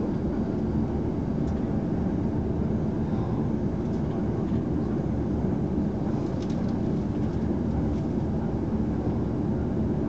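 Steady running noise of an electric train heard from inside the passenger car at speed: an even low rumble of wheels on rail and car body.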